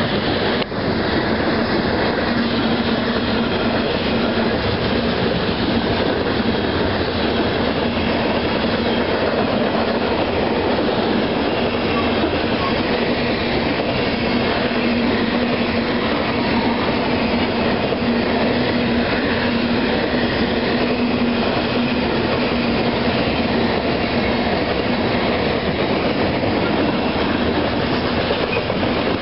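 Coal hopper cars of a unit coal train rolling past on the main track: steady wheel-on-rail noise with clatter from the cars, over a faint steady hum.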